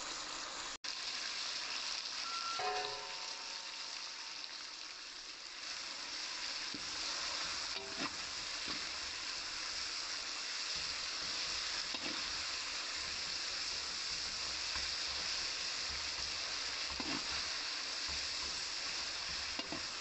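Onions, tomatoes and green chillies sizzling steadily as they sauté in hot oil in a frying pan, stirred now and then with a spatula.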